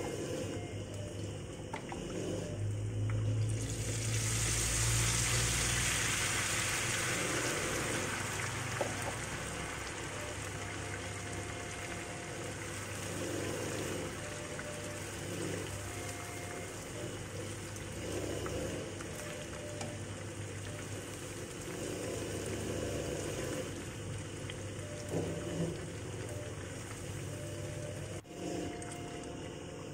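Battered kepok banana fritters deep-frying in hot oil, sizzling. About four seconds in, the sizzle flares up loudly as thin batter is poured into the oil for the crispy coating, then settles back to a steady sizzle.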